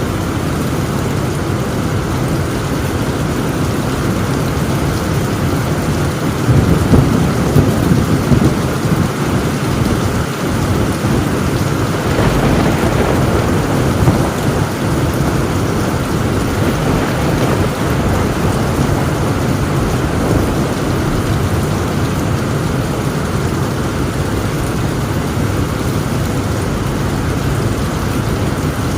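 Heavy rain pouring steadily on a tin roof, with thunder rumbling and swelling louder about six seconds in and again around twelve seconds.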